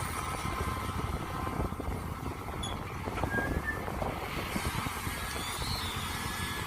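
Mini excavator engine running steadily, with a few faint short squeaks and clicks over it.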